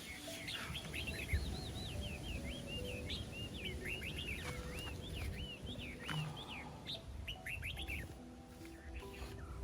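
Small birds chirping and twittering in quick, overlapping calls, with held low notes and a low rumble underneath.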